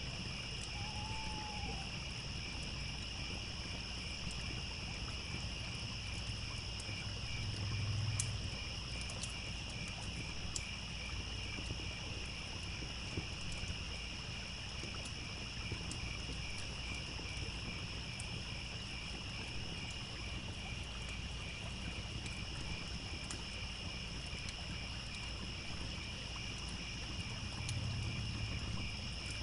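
Crickets chirping in a continuous, finely pulsing chorus over a low steady rush of running water, with the scattered sharp crackles and pops of a wood fire. A short whistling call sounds about a second in.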